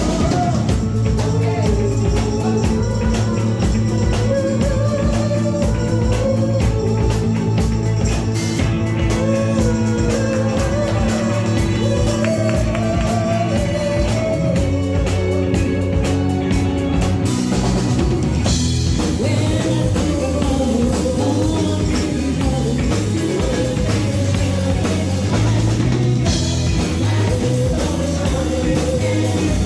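Live band playing a rock song: a singer over drums and guitar with a steady beat.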